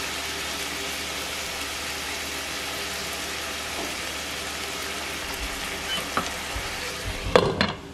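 Chicken, onion and carrot sizzling steadily as they fry in a frying pan. A few light knocks come near the end, the loudest just before the sizzle drops away.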